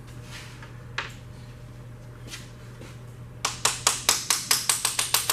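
Small brass mallet rapidly tapping a connecting-rod cap loose on a 1950 Mercury flathead V8: one single knock about a second in, then a quick run of sharp metallic taps, about six a second, starting past the halfway point.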